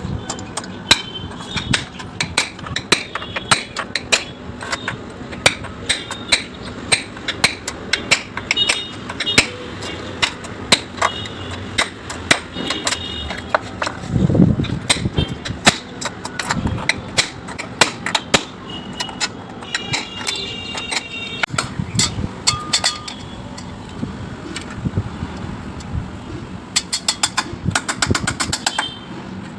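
Tool and metal work on a split air conditioner installation: irregular sharp knocks, taps and clicks, with a quick run of clicks near the end, over a steady background noise.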